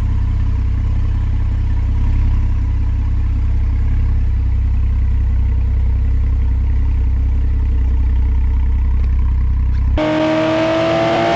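2024 Porsche 911 Carrera 4S's twin-turbo flat-six running steadily at an even pitch through its Porsche Sport Exhaust, fitted with Fabspeed headers and high-flow catalytic converters. About ten seconds in the engine sound cuts off suddenly and music with rising tones begins.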